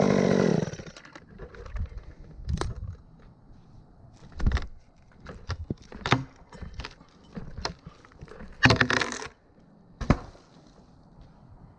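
Chainsaw running, then cutting off under a second in. Scattered light clinks and knocks follow, with one louder rustling, scraping burst about nine seconds in.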